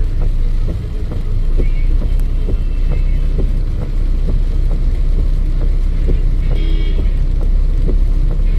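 Motor-vehicle traffic on a flooded road: a loud, steady low rumble with scattered ticks, and a brief pitched tone about two-thirds of the way through.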